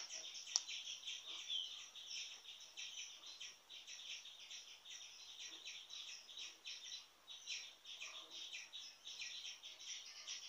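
Faint, continuous chirping of small birds, many short calls overlapping, with a sharp click or two in the first second.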